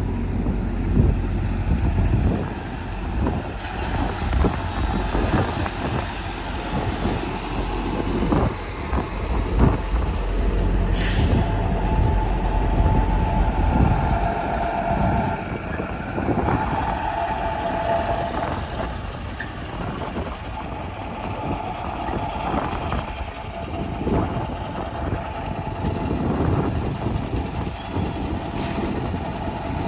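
Semi trucks passing on the road, with a continuous rumble of diesel engines and tyres. There is a brief sharp hiss of air about a third of the way through, and a steady high tone is held for several seconds just after it.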